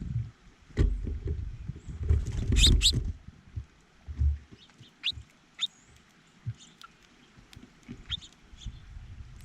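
Small birds at a feeder close to the microphone: short high chirps, the loudest pair about two and a half seconds in and a few more later, over low bumps and rustling.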